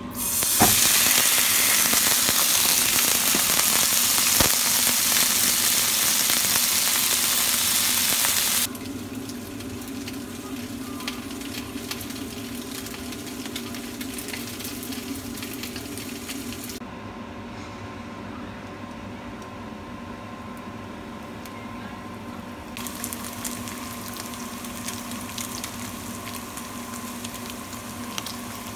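Japchae (glass noodles and vegetables) tipped into a hot oiled frying pan, sizzling loudly as it lands. The sizzle drops abruptly to a quieter, steady frying sound about nine seconds in.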